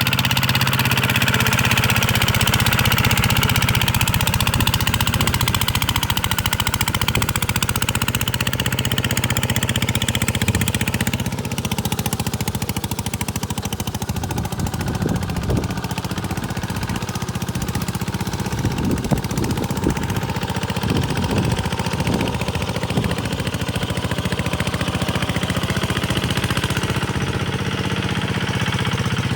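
Small Kubota single-cylinder diesel engine running steadily, with its fast, even firing. About a third of the way in the higher part of the sound drops away and the running turns duller, with scattered knocks over the next several seconds.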